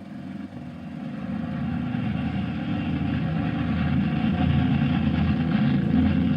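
Steady drone of propeller aircraft engines, growing gradually louder as the plane comes closer, heard on a thin old newsreel film soundtrack.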